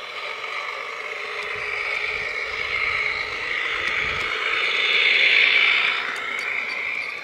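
Garden railway model train running along the track, with wheels and gearing whirring and a high rail whine. It grows louder to a peak about five seconds in, eases a little and then cuts off abruptly.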